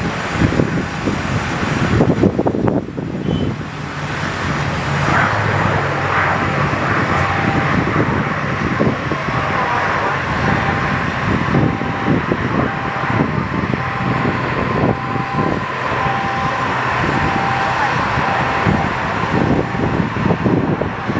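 Airliner engines running on the airfield, a steady rushing drone with a low hum, mixed with gusty wind on the microphone.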